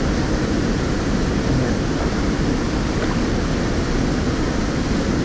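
Steady rushing noise of flowing river water, even and unbroken, heaviest in the low end.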